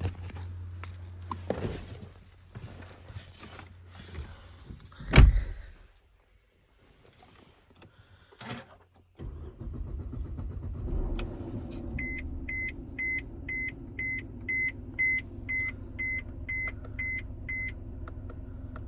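A loud thump about five seconds in amid handling noises. About nine seconds in, the 2014 Mercedes-Benz C250's turbocharged four-cylinder engine starts cold and settles into a steady idle. Over the idle, a warning chime beeps about twice a second for roughly six seconds.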